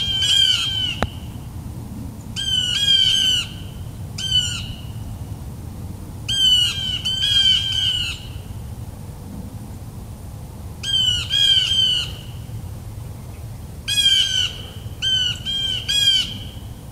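A bird calling repeatedly: short notes in runs of two to four, each note dropping in pitch at its end, with a new run every few seconds.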